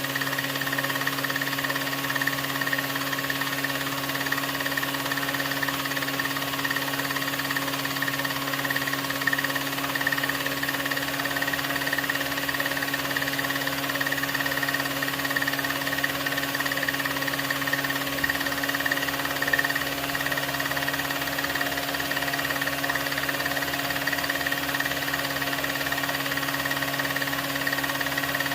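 16mm film projector running: a steady mechanical whirr with a fast, even flutter and a constant hum, unchanging throughout.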